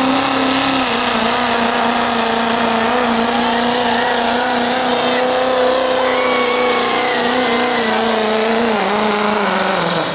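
Turbocharged diesel pickup truck at full throttle pulling a weight sled: the engine holds a steady high pitch under load, with a thin high turbo whistle over it. Over the last second or so the engine note falls as the run ends.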